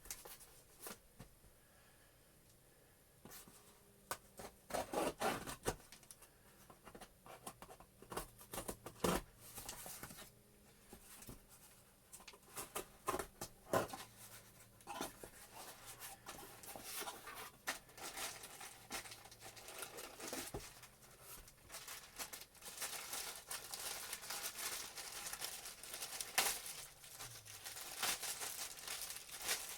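A mailed box being opened by hand: tape tearing and the packaging rustling and crinkling in irregular bursts, starting about three seconds in and growing busier toward the end.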